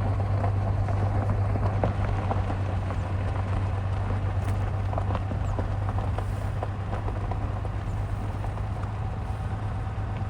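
Truck driving: a steady low engine and road drone with many small crackles from the tyres.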